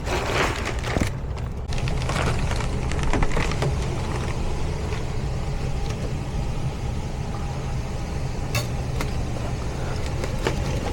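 Steady low hum of running HVAC equipment, with a few sharp clicks and knocks of metal as the dirty evaporator coil is worked at to slide it out.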